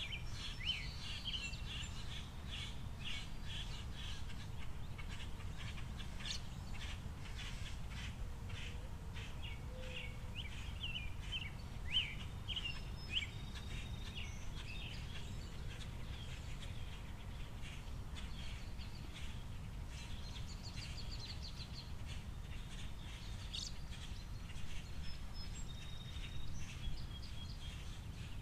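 Small songbirds chirping in quick, short calls, busy through the first half and sparser later, over a steady low background rumble.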